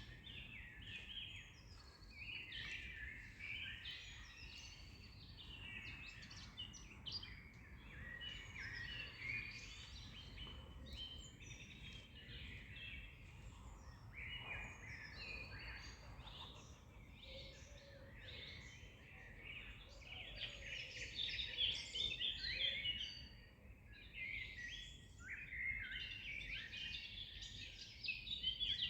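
Several songbirds singing and chirping at once, a dense, continuous chorus of overlapping phrases, over a faint low background hum.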